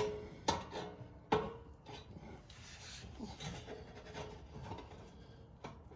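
Metal parts of an exhaust joint being handled and fitted: three sharp clinks with a brief ring in the first second and a half, then scraping and rubbing of metal on metal.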